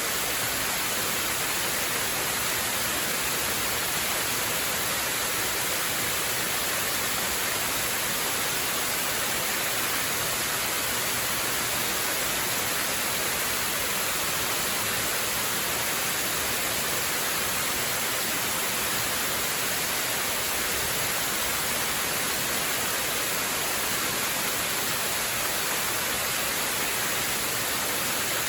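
Waterfall: water falling and rushing as a steady, unbroken hiss, even throughout and brightest in the high range.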